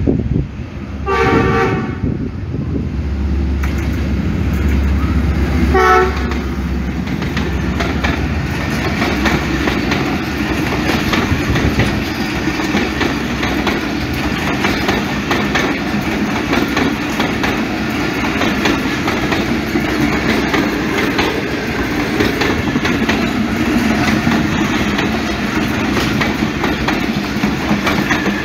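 Pakistan Railways diesel locomotive sounding its horn, a blast about a second in and a shorter one about six seconds in, as it runs past with its engine rumbling. Then the passenger coaches roll by in a steady rumble and clickety-clack of wheels on the rails.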